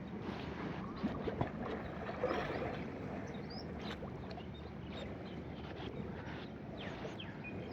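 Water splashing and sloshing around water buffaloes swimming in a canal, with scattered sharp splashes and a few short high chirps.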